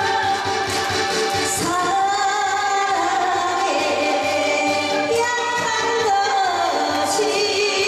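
A woman singing with instrumental accompaniment, long held notes with vibrato.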